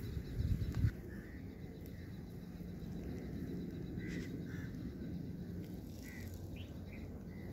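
Faint, short bird calls here and there over a steady low rumble, with a few low thumps in the first second.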